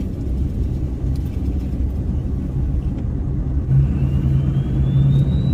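Diesel pickup truck engine running with a steady low rumble. About four seconds in the engine note strengthens and a faint high whine rises with it.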